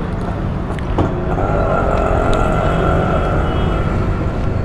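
Steady road traffic rumble, with a passing motor vehicle's engine note that comes in about a second in and fades near the end.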